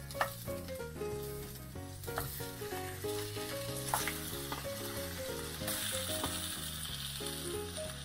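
Potato halves sizzling in hot oil in a nonstick frying pan as they are laid in one after another to brown. The sizzle grows louder a little after halfway. Background music runs underneath.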